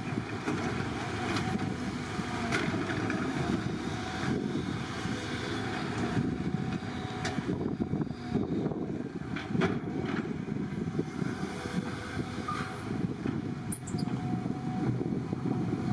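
Heavy diesel construction machinery, such as an excavator or dump truck at a roadworks site, running steadily with a deep rumble and a few brief sharp clanks.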